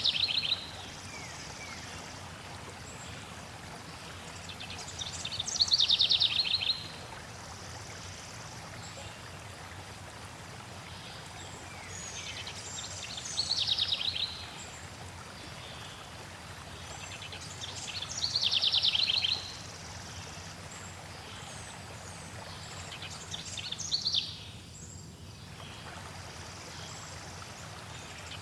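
Steady flowing water with a songbird repeating a short, rapid, falling trill about every six seconds, five times in all.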